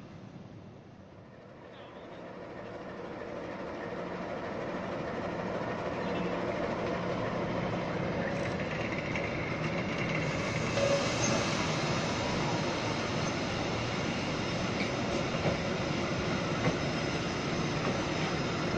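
Passenger train coaches rolling past at close range, a steady rumble of wheels on rail. The sound starts faint and builds over the first several seconds, then holds steady.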